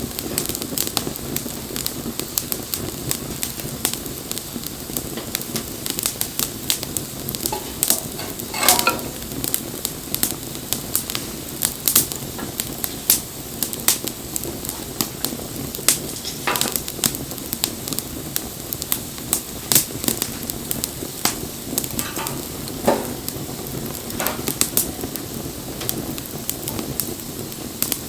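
Wood fire burning, with a steady rush of flame and frequent sharp crackles and pops. There are a few brief hisses, about 9, 16 and 23 seconds in.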